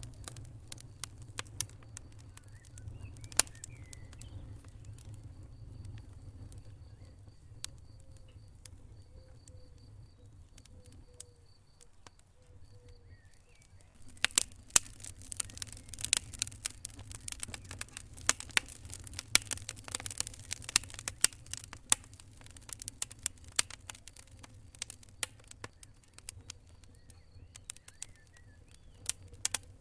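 Wood fire in a fireplace crackling and popping over a low steady rumble. The pops are scattered at first, then come thick and fast in a dense run of crackles about halfway through.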